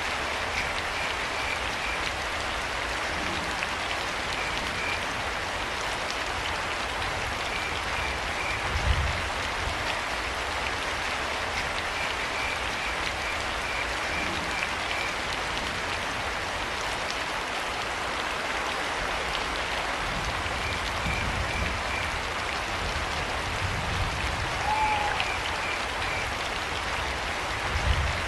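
Steady rain falling, with crickets chirping in short, evenly pulsed trains that come and go every few seconds. Two low rumbles stand out, about nine seconds in and near the end.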